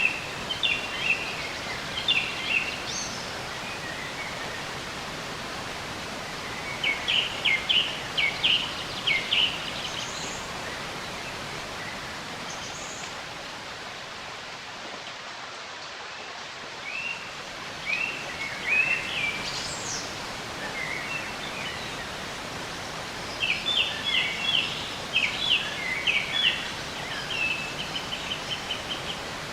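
Songbirds chirping in several bursts of quick, high notes over a steady, even hiss of background noise.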